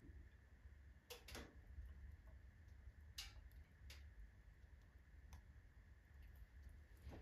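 Faint crackling of a wood fire of alder and oak logs in a fireplace stove: about half a dozen sharp, irregular pops and cracks over a low steady rumble.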